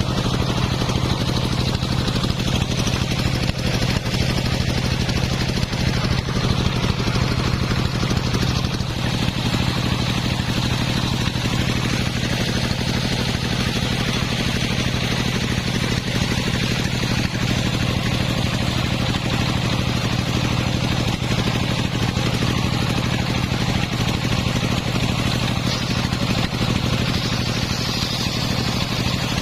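Engine of a homemade circular sawmill running steadily, with an even mechanical noise over it.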